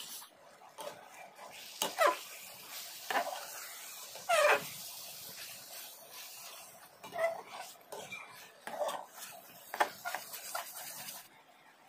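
Chicken curry sizzling steadily in a pan, with several short pitched cries falling in pitch over it, the loudest about four seconds in. The sizzle stops shortly before the end.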